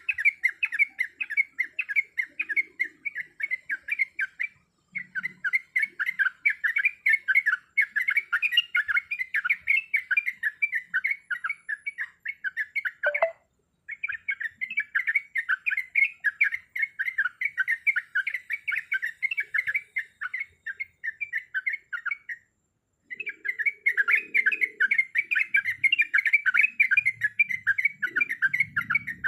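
Sooty-headed bulbul (trucuk) calling in a fast, continuous chatter of short chirping notes, broken by brief pauses roughly every nine seconds.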